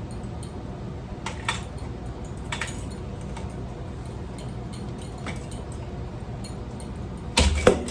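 Metal ceiling fan parts clinking and tapping a few times as they are handled, then a loud crash with a heavy thump near the end.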